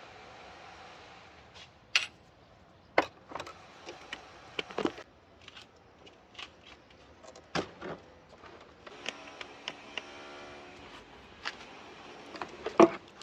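Scattered sharp clicks and knocks of hand tools and parts being handled during wiper motor and linkage work, the loudest near the end, with a brief steady hum about nine to eleven seconds in.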